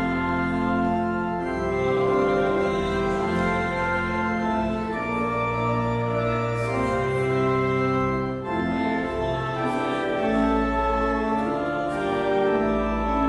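Organ playing a hymn in held, sustained chords that change every second or two.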